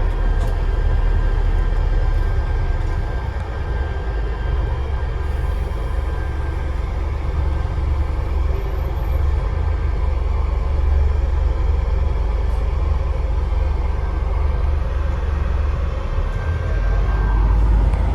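Scania Enviro 400 double-decker bus engine running, heard from inside the bus: a steady low drone with a faint, thin turbocharger whistle above it. The low rumble swells near the end.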